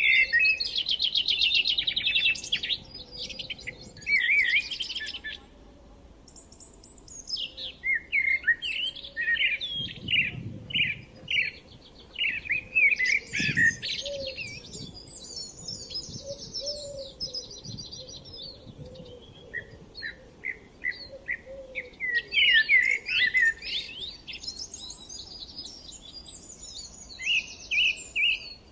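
Several songbirds singing at once, a dense mix of rapid chirps and trills, with brief quieter lulls twice.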